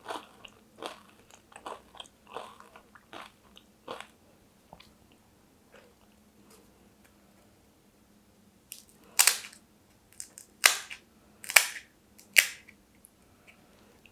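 Close-miked chewing of pani puri, with a run of soft crunching mouthfuls, a pause, then four loud crisp crunches of the puri shells about a second apart.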